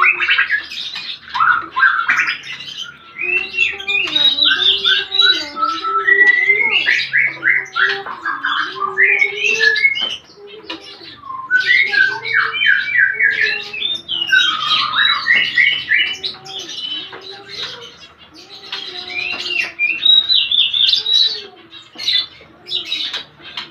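A group of Eurasian tree sparrows chirping in a busy, overlapping chatter of short calls, coming in bouts with brief lulls.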